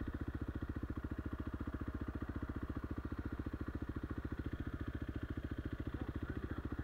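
Motorcycle engine idling while the bike stands, a steady, even beat of about a dozen low pulses a second.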